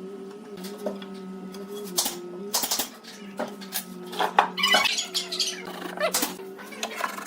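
Irregular sharp knocks and clicks from woodworking hand work, the loudest a cluster about two to three seconds in and another past four seconds, over a steady hum.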